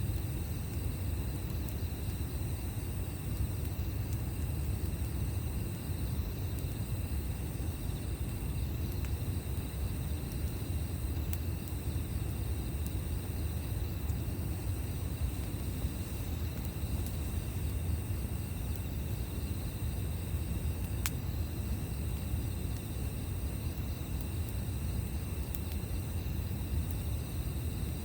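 Crickets or other night insects trilling high and steadily in long pulses broken about every two and a half seconds, over a steady low rumble. A faint click or two are heard, such as a campfire crackle.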